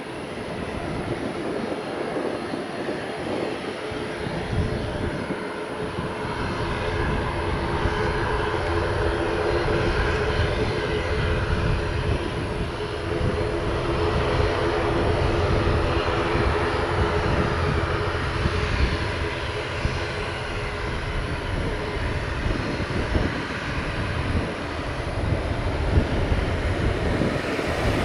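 Jet aircraft engines running as a plane goes by, a steady rushing noise with a humming engine tone that swells to loudest around the middle and then eases off.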